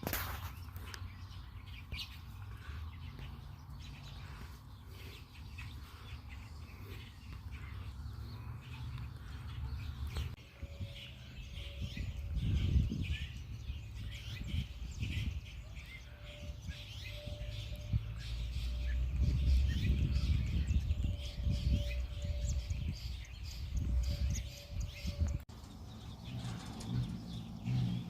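Small birds chirping and twittering in bursts, busiest in the middle of the stretch, over a low buffeting rumble. A faint steady hum comes in partway through and stops near the end.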